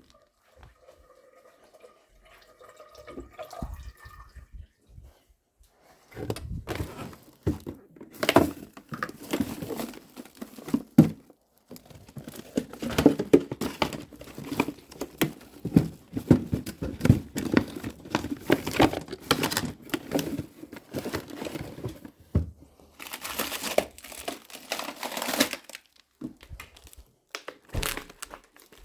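Crinkling and rustling, as of packaging being handled and torn open, with irregular small clicks and knocks. A louder two-second stretch of the same crackly noise comes about two-thirds of the way through.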